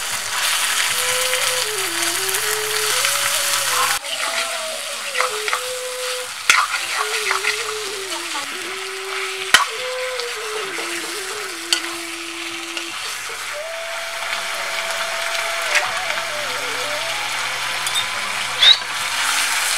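Raw chicken pieces sizzling as they fry in hot oil and spice paste in a kadai (wok), just added to the fried masala. A steel ladle stirs and scrapes through it, with a few sharp clinks against the pan.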